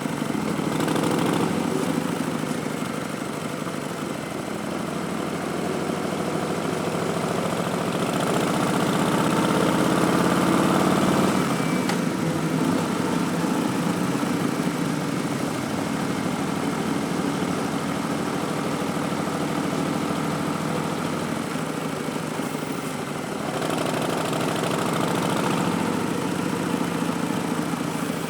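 Harley-Davidson Street Bob's V-twin running through a Vance & Hines Twin Slash slip-on exhaust as the motorcycle is ridden. The engine note climbs and grows louder about eight to eleven seconds in, falls away sharply, and swells again near the end.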